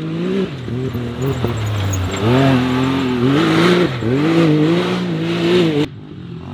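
Can-Am side-by-side's engine revving up and down repeatedly as it is driven hard on dirt, with a hiss of tyres and spraying dirt; the sound cuts off abruptly near the end.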